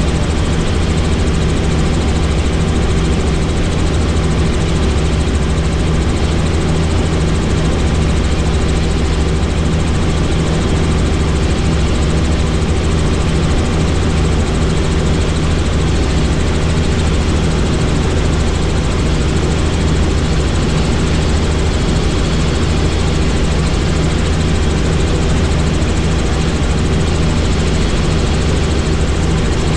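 Helicopter turbine and rotor noise heard from inside the aircraft in flight: a steady, loud drone with a strong low hum, unchanging throughout.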